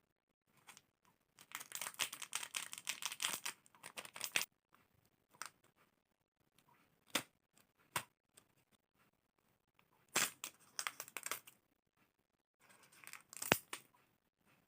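Plastic snack packaging being torn open and crinkled in several bursts of rustling, with a few sharp clicks in between.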